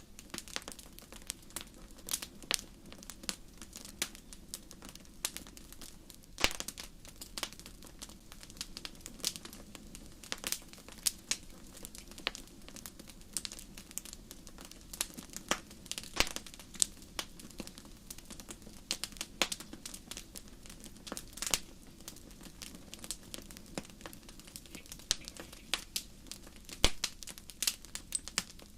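Wood campfire crackling, with irregular sharp pops and snaps over a soft steady rush of the flames.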